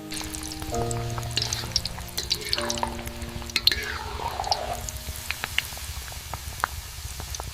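Pakoras frying in hot oil, sizzling with scattered sharp crackles, over soft background music.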